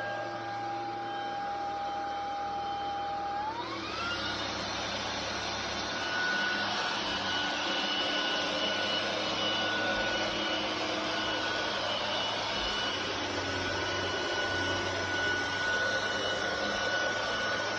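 Cordless stick vacuum's brushless motor running with a steady whine and rushing air. About three and a half seconds in, the motor speeds up: the whine glides up in pitch and the airflow noise grows louder, then holds steady at the higher speed.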